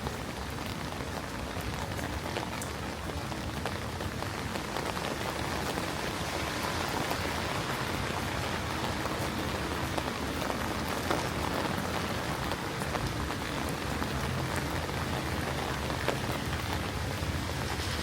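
Steady rain falling and pattering on surfaces, with many scattered sharp drop ticks through the even hiss. It grows a little louder about a third of the way in.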